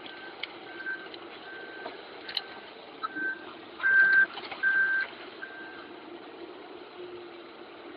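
Vehicle reversing alarm beeping at one steady pitch, about one beep every three-quarters of a second, loudest midway and stopping about six seconds in, over the steady hum of a running engine.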